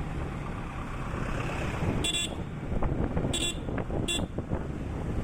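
A high-pitched vehicle horn honks three short times, about two, three and a half and four seconds in, over the steady rush of wind and road noise from a moving motorcycle.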